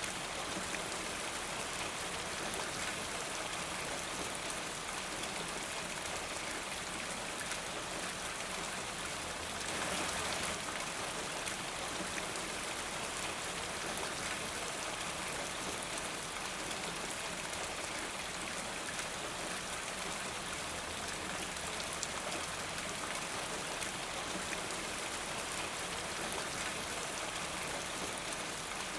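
Steady rain falling, an even patter that swells briefly about ten seconds in.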